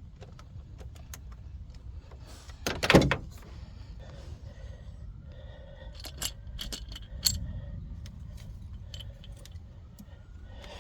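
Light metallic clinks and rattles of hand tools and engine parts being handled, with a louder clatter about three seconds in.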